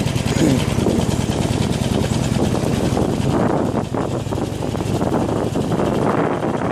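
Harley-Davidson Iron 883's air-cooled V-twin engine running steadily at low speed on a dirt track, its firing pulses coming fast and even.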